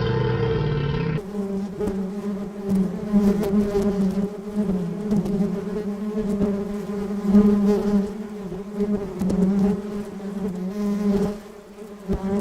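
Bees buzzing, a steady, wavering hum in flight. Before it, a different pitched sound cuts off abruptly about a second in.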